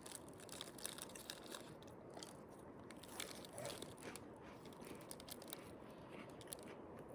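Faint crunching of someone chewing a crunchy snack close to the microphone: a run of small, irregular crackling clicks.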